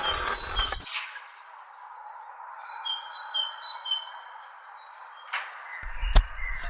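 Steady high cricket trill with birds chirping repeatedly over a rural outdoor background. Deep thudding at the very start and again near the end, with a sharp click just before the end.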